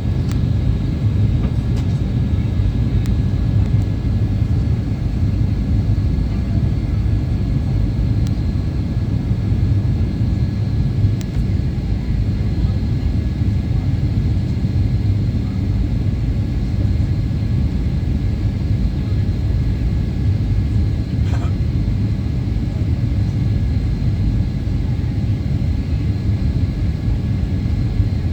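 Steady low rumble of engine and airflow noise inside the cabin of a Boeing 737-800 with its CFM56 turbofans, heard during the approach into Brisbane, with a couple of faint clicks.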